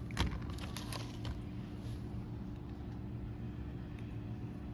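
Steady low mechanical hum, with a few light clicks in the first second or so as small parts are handled.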